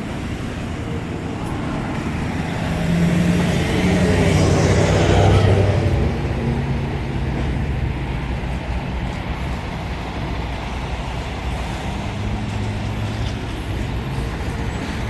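Street traffic with a motor vehicle passing close by, swelling to its loudest about four to six seconds in and fading, followed by the steady hum of engines in traffic.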